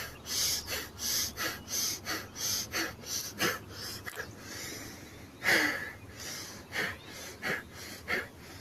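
A man doing Bhastrika pranayama (bellows breath): rapid, forceful breaths through the nose, about three a second, with one longer, deeper breath about halfway through.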